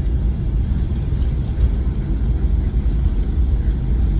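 Cabin noise inside a Boeing 737-900ER rolling on the ground after landing: a steady low rumble from the engines and wheels, with a few faint light rattles.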